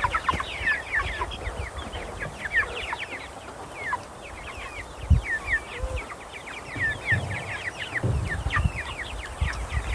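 A flock of young meat-bird chicks peeping continuously, many short downward-sliding peeps overlapping, with occasional low thumps of handling or movement.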